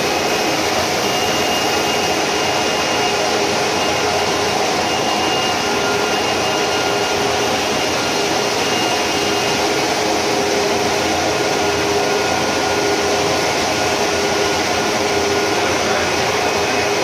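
Large automatic carpet washing machine running, a steady, loud machine noise with a few faint steady tones.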